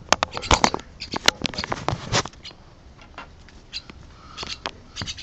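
Mynah bird giving a quick run of short, harsh calls and clicks, dense for about the first two seconds, then sparser.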